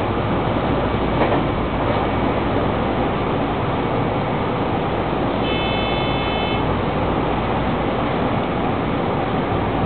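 JR West 223 series 2500 electric train running steadily at speed, its wheel-on-rail and running noise heard from the driver's cab as it crosses a steel truss bridge. A single knock about a second in, and a brief steady high tone for about a second around the middle.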